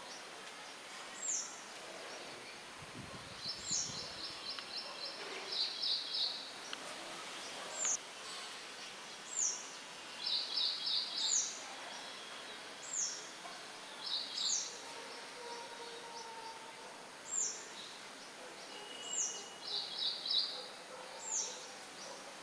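Songbirds calling over a steady rustle of wind. A high, thin call sliding downward repeats every second or two. Short, rapid trills come in between.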